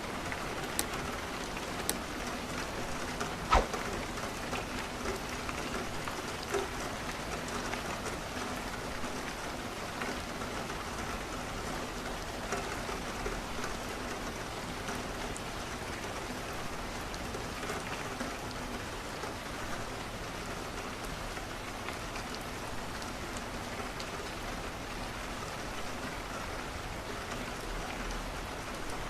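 Steady rain on a window, with a few sharp pops of a wood fire crackling, the loudest about three and a half seconds in, and lighter ticks scattered after.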